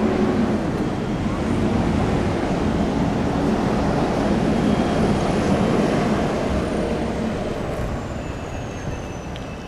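Steady rumble and hiss of a running road vehicle, with a low hum, easing off a little near the end.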